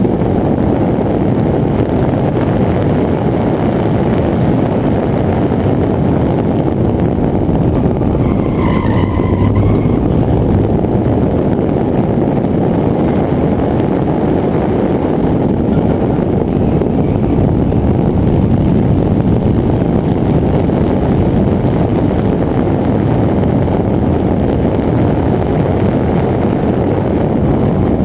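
BMW 2002's four-cylinder engine running under load through an autocross run, heard from inside the cabin. A brief tire squeal comes about nine seconds in.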